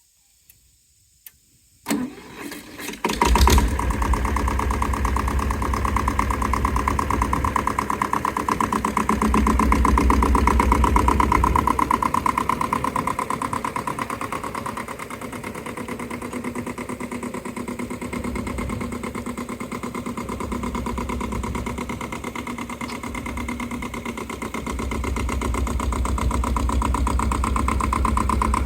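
Tractor engine cranked and started, catching after about a second and a half of cranking, then running steadily. It runs a little louder around ten seconds in, eases off, and picks up again near the end.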